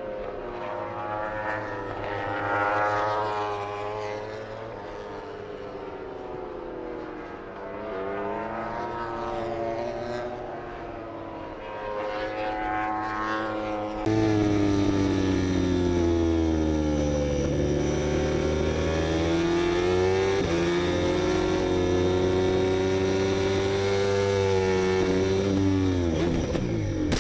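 MotoGP racing motorcycle engines, the revs rising and falling through gear changes and passes. About halfway through it cuts abruptly to a louder, steadier engine note.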